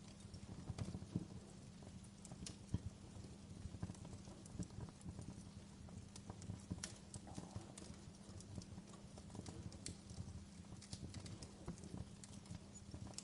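Wood fire burning in a fireplace, with irregular crackles and pops over a soft, steady hiss.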